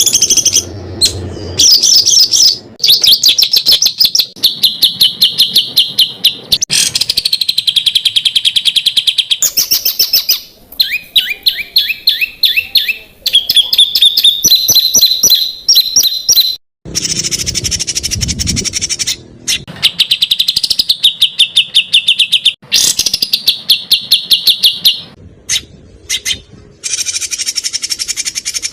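Loud songbird song made of fast trills of rapidly repeated sharp notes, the rapid-fire 'tembakan' phrases prized in Indonesian competition songbirds. The phrases change abruptly every few seconds with short breaks, as separate recordings spliced one after another.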